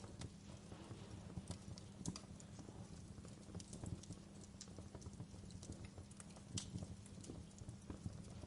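Wood fire burning in a fireplace: a steady low rumble with irregular crackles and pops from the burning logs.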